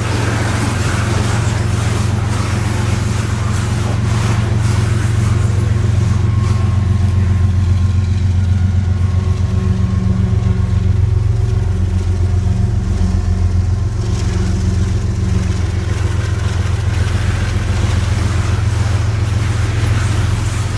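Diesel locomotives of a Canadian Pacific coal train running under power, a loud steady low engine drone.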